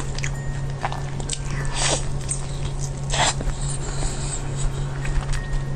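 Close-miked eating of sticky rice and meat: many small wet chewing clicks, with two louder bites about two and three seconds in, over a steady low hum.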